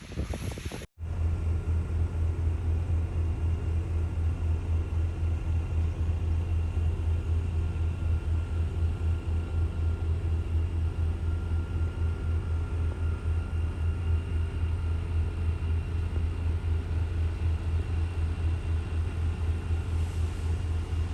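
An engine running steadily, starting about a second in: a low, fast-pulsing rumble with a faint whine above it.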